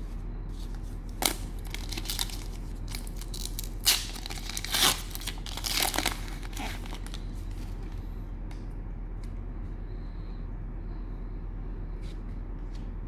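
Cellophane wrapper of a trading card pack being torn open and crinkled, with a few sharp rips during the first seven seconds or so, then only faint rustles. A steady low hum runs underneath.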